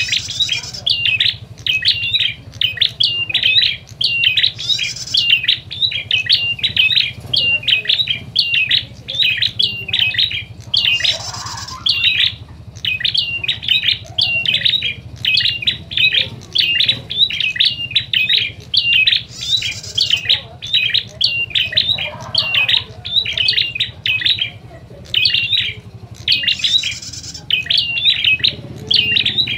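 Prenjak (prinias) in an agitated fighting chorus: sharp chirps repeated several times a second without a break, with a harsh, buzzy squawk every few seconds. A steady low hum runs under the calls.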